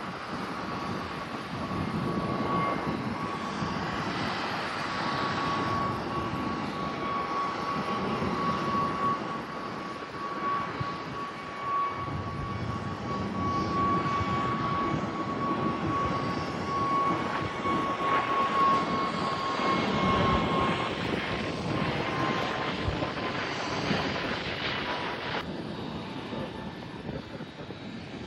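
Airliner engines running as the plane passes, a broad rumble with a steady high whine that slowly falls in pitch; the sound fades near the end.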